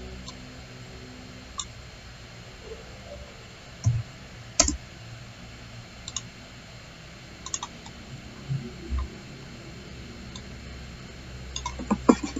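Scattered clicks from a computer mouse and keyboard, with a quick run of several clicks near the end and a couple of soft low thumps.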